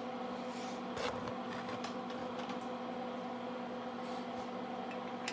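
Steady electrical mains hum with a light hiss underneath, and one soft knock about a second in.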